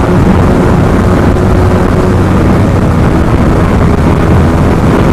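Yamaha R15M's 155 cc single-cylinder engine held at high speed in a long full-throttle run, a steady loud drone whose pitch steps down slightly about two seconds in, with heavy wind rush over the microphone.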